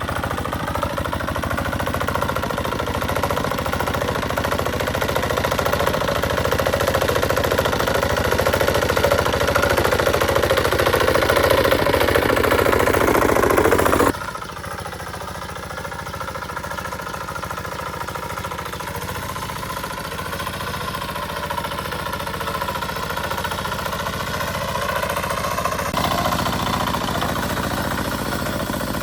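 An engine running steadily with a rapid, even knocking pulse. It grows louder over the first half, then drops suddenly about halfway through and runs on more quietly.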